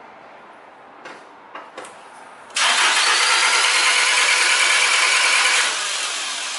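A few light clicks, then a Honda Civic four-cylinder gasoline engine cranking on its starter for about three seconds, a steady whir that never catches or fires. With the timing belt removed, the camshaft and valves are not turning, so the engine cannot start. The sound then drops off and fades out.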